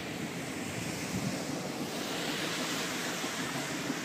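Container wagons of a freight train rolling past on an elevated concrete viaduct: a steady rumble of wheels on the rails, growing a little brighter about halfway through.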